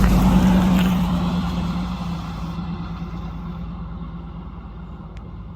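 V8 engine of the 1955 GMC pickup (a 350ci ZZ4 crate motor) running at a steady speed, its sound fading away gradually.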